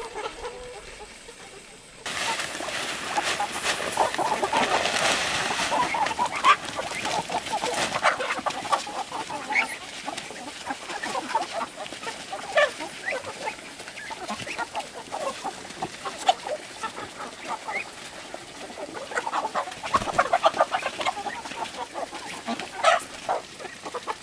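A flock of chickens clucking, many short overlapping calls, starting abruptly about two seconds in. A hiss sits under the calls for the first few seconds.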